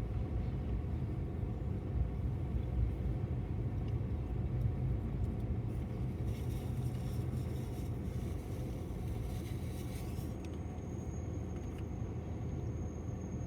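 BNSF intermodal freight train rolling past with a steady low rumble, with a stretch of hiss in the middle.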